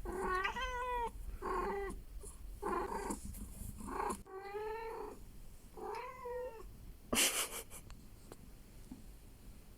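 Cat meowing repeatedly: five drawn-out meows about a second apart, each rising and falling in pitch, then a short noisy burst about seven seconds in.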